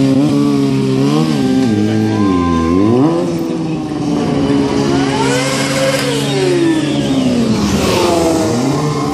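Sportbike engine revving up and down during stunt riding, its pitch dipping and rising again about two to three seconds in, holding steady, then sliding down and climbing back near the end.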